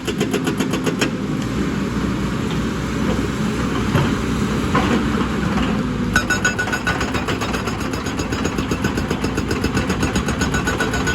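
Heavy excavator's diesel engine running steadily with a rhythmic pulse. The sound changes abruptly about a second in and again about six seconds in, with a few faint knocks in between.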